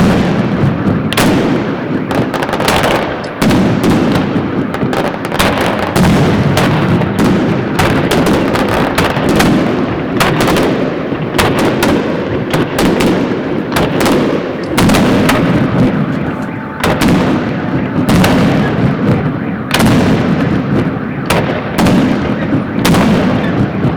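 Fireworks salute going off: a dense, unbroken series of loud sharp bangs, often several a second.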